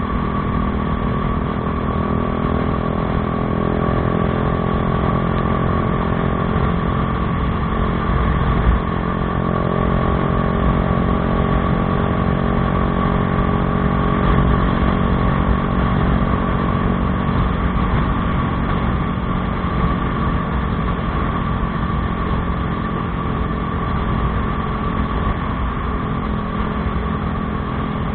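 Bajaj Dominar 400's single-cylinder engine running steadily through an aftermarket Akrapovič exhaust, with only slight rises and falls in level and one brief click about nine seconds in.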